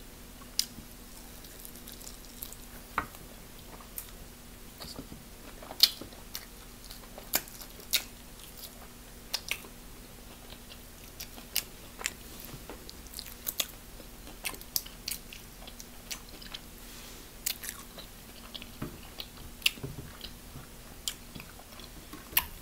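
Chewing and mouth sounds of a person eating chicken wings close to the microphone: many short, scattered clicks and smacks over a low, steady background.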